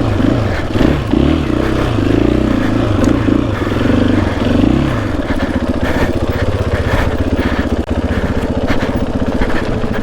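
Dirt bike engine revving up and down for the first half, then running at a steadier speed.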